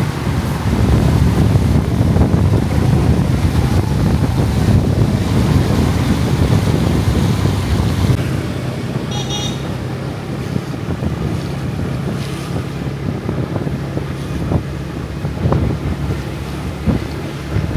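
Wind buffeting the microphone over a low rumble of street traffic. The rumble eases about eight seconds in, and a brief high-pitched beep sounds about nine seconds in.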